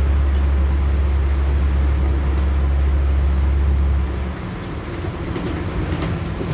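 LiAZ-6213.65 articulated city bus on the move, heard from inside: engine and road noise with a strong low drone that stops about four seconds in, leaving the lighter rumble of the running bus.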